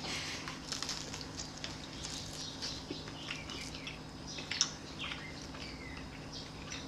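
People chewing freshly baked sourdough bread: small, irregular mouth clicks and crackles of crust, with a slightly louder bite about four and a half seconds in, over a steady low hum.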